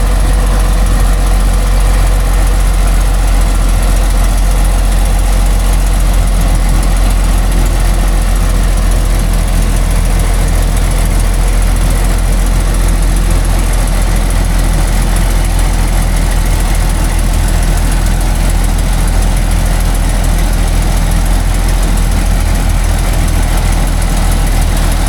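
Heavy logging truck's engine running steadily with a deep, even drone that does not rise or fall.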